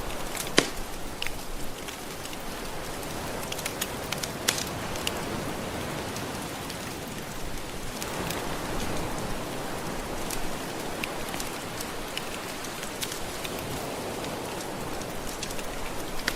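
Wood fire crackling with scattered sharp pops, the loudest about half a second in, over a steady hiss of gentle ocean waves.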